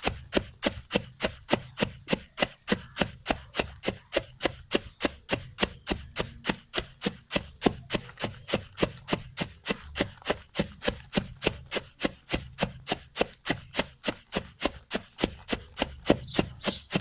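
Roasted barley grains being winnowed in a woven winnowing tray (chhaj): the tray is jerked and the grain thrown up and caught again, a rhythmic tapping and rustling at about three strokes a second as the husks are shaken loose.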